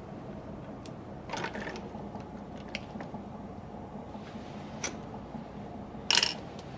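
Brief handling noises over a steady low hum: a short scrape about a second and a half in, a sharp click near five seconds, and a louder short clatter near the end.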